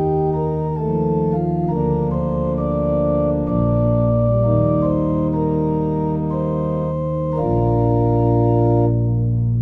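Organ playing slow, held chords over a deep sustained bass, the harmony moving every second or so, with a lower bass note coming in about three and a half seconds in and again near the end.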